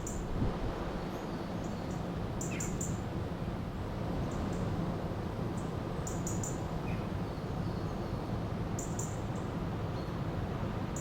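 River water flowing steadily, with small birds giving short, very high chirps in little clusters every second or two over it.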